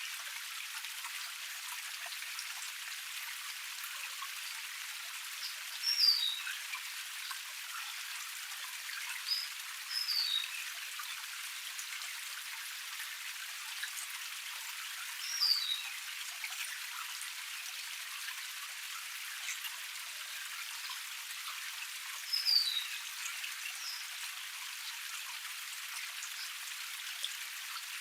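Small forest waterfall cascade splashing steadily. A bird repeats a short, high, falling call about four times over it.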